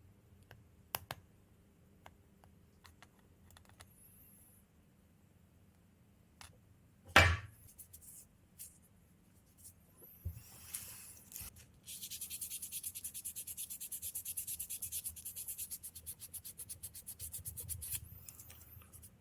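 Fine sandpaper rubbed rapidly back and forth over the metal contacts of a motorcycle ignition switch, about ten strokes a second, in the second half. Before it come a few light clicks and one sharp knock of handled parts.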